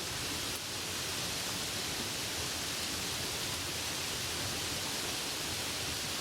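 Steady, even rain hiss with no distinct drops or other sounds.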